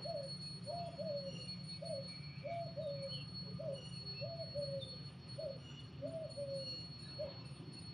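A bird calling over and over, a short falling call one or two times a second, with fainter chirps of small birds and a steady low hum underneath.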